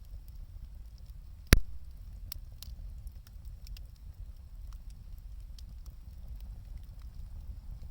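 Wood fire crackling: scattered small pops over a steady low rumble, with one loud sharp crack about a second and a half in.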